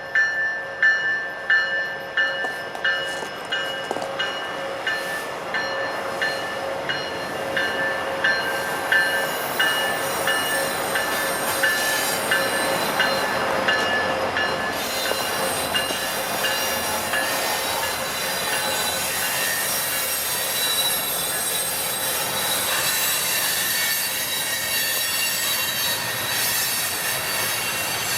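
Alaska Railroad train passing, with a bell ringing in even strokes, a little more than one a second, that fade out about halfway through. The rumble of the moving cars builds and wheels squeal against the rails in the second half.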